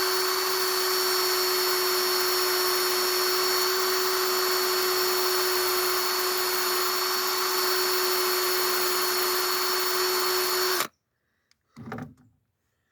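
Cordless drill spinning a wire wheel at a steady speed, the bristles brushing metal clean. It stops abruptly about eleven seconds in, and a short knock follows a second later.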